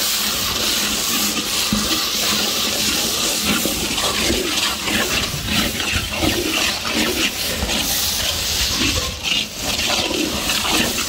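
Chopped onions, green chillies and curry leaves sizzling in hot oil in a large kadai, with a ladle stirring and scraping through them now and then.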